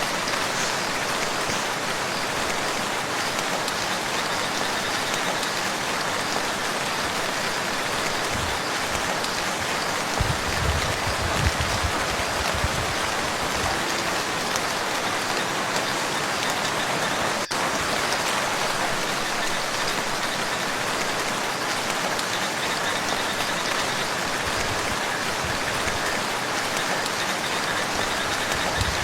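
Steady rain falling on a lake, an even dense patter, with a few low thumps about ten to thirteen seconds in.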